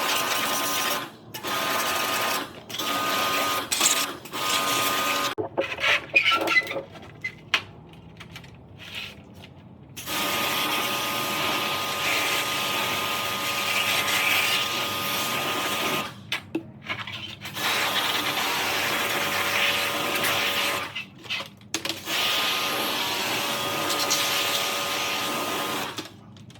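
A small electric motor running with a hiss, stopping and restarting about ten times, with a longer broken stretch of clicks and rattles in the first third.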